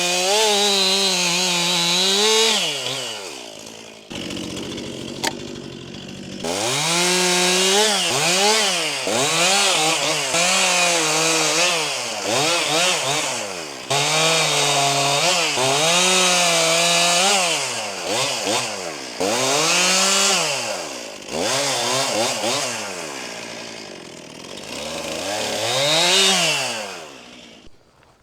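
New Stihl MS261 C two-stroke chainsaw being broken in while limbing, revved up to high speed and let back down again and again, about a dozen times, with a quieter spell near idle early on. It winds down near the end.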